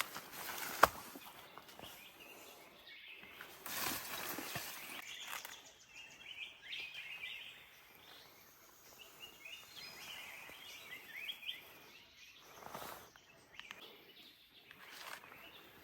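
Forest ambience with small birds chirping in short clustered calls through the middle stretch, and a single sharp click about a second in.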